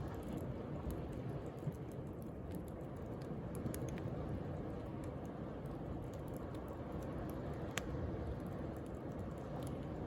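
Wood bonfire crackling, with scattered sharp pops and ticks, one standing out near the end, over a steady low rushing wash of sea waves.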